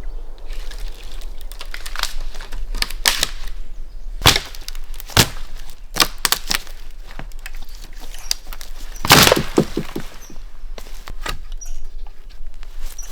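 Dry wood cracking and snapping in a series of irregular sharp cracks and knocks, with a quick cluster of them about nine seconds in.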